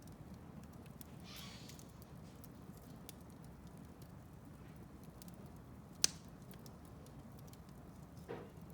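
Wood fire in a fireplace crackling softly with sparse small ticks, a brief hiss about a second in, and one sharp, loud pop about six seconds in.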